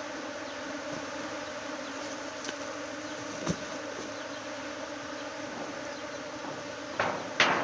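A swarm of honeybees buzzing steadily as a low, even hum. A sharp knock about halfway through and two louder knocks near the end.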